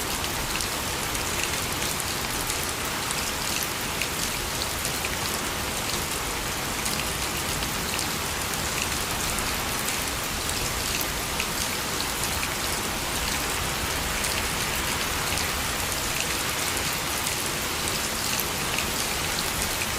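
Steady rain falling, with many individual drops ticking sharply on a surface. No thunder.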